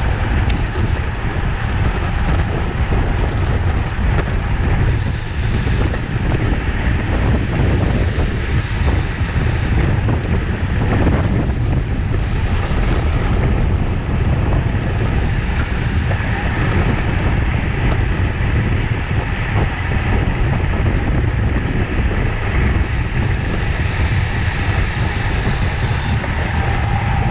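Loud, steady wind noise buffeting the microphone of a rider's camera while riding at race speed in a bicycle criterium.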